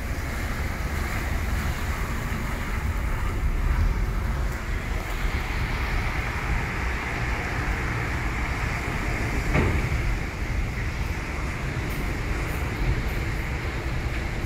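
Steady rain falling on wet pavement, an even hiss with a low rumble underneath. A single brief tap about ten seconds in.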